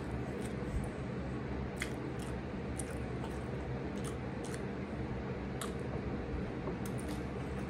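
Close-miked eating sounds: irregular wet mouth clicks and squishes as a whole green chili pepper is bitten and chewed, over a steady low background hum.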